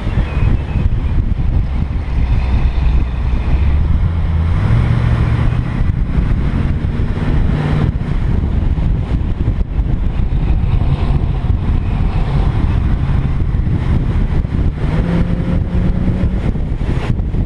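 A Ford Mustang's engine pulling hard around a track. Its pitch climbs during the first half, drops back about eight seconds in as the driver lifts or shifts, then climbs again near the end. Heavy wind buffets the externally mounted microphone throughout.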